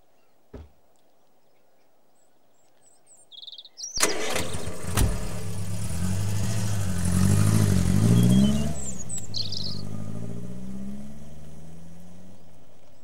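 Old car's engine starting with a sudden burst about four seconds in, then revving up and down as it pulls away, its pitch dropping and the sound fading as it drives off. A few short high chirps come just before the start.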